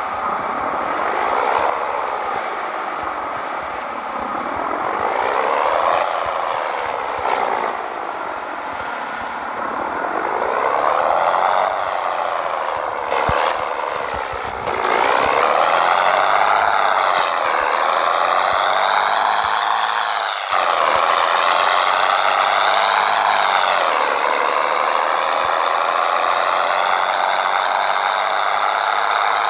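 Scania 113 truck's six-cylinder turbodiesel accelerating through the gears: the engine note rises under load, then drops back at each gear change, several times over. In the later shifts a high whistle climbs along with the engine.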